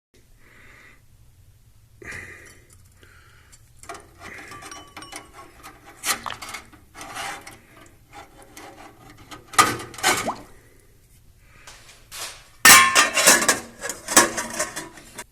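Small metal carburetor parts and the wire basket of an ultrasonic cleaner being handled, with scattered clinks and knocks and a louder burst of clattering near the end.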